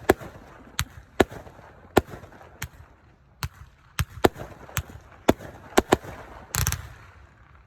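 Fireworks going off: a dozen or so sharp bangs at irregular intervals, with a longer, louder burst about six and a half seconds in.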